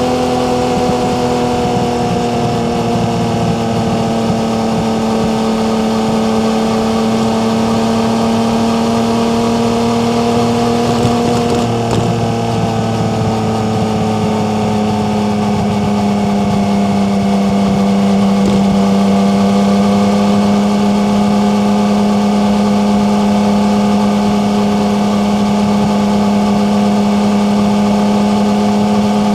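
Yamaha MT-09's three-cylinder engine running at steady cruising revs, its pitch easing a little lower about halfway through and then holding steady.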